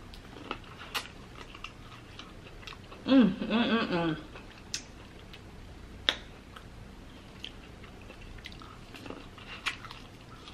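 Close-miked chewing and biting of corn on the cob, with scattered wet mouth clicks. About three seconds in there is a brief hummed vocal sound of about a second.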